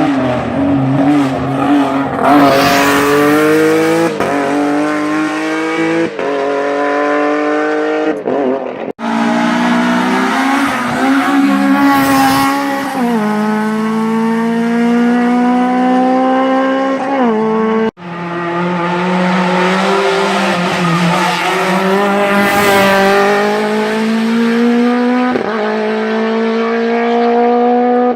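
Hillclimb race car engines at full throttle, climbing in pitch and shifting up through the gears with sudden drops in pitch at each shift. Three separate runs follow one another, each starting abruptly about 9 and 18 seconds in.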